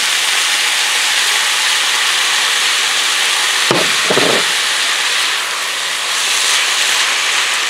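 Fried rice sizzling steadily in a hot frying pan just after soy sauce has gone in, with a spatula stirring it near the end. A brief voice sounds a little past halfway.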